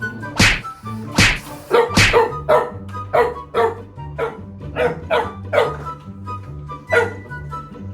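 A dog barking repeatedly, about two barks a second with a short pause near the end, over background music.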